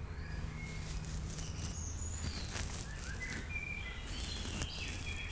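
Forest nature ambience: songbirds chirping in short, scattered calls over a steady low hum.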